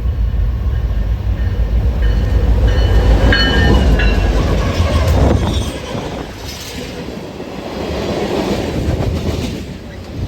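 A train passing close by on the rails: a heavy low rumble for the first half, with a brief thin high squeal of wheels on rail a few seconds in, then lighter rolling noise that swells again near the end.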